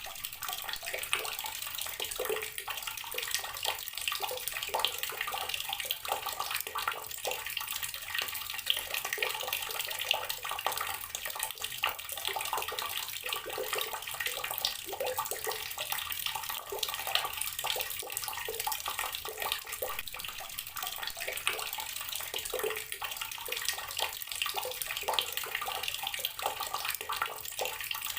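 Water running steadily from an outdoor tap and splashing onto the surface below, a continuous rush with small irregular splashes.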